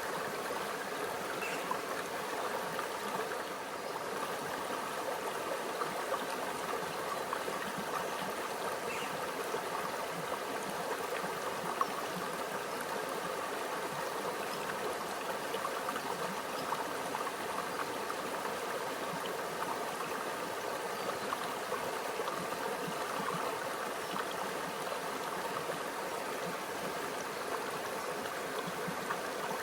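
A shallow stream running over rocks: a steady babble and trickle of water, with small splashes flicking out here and there.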